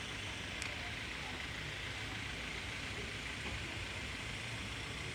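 Steady outdoor background noise at a road level crossing, a hiss-like hum with a low rumble, broken once by a faint sharp click about half a second in.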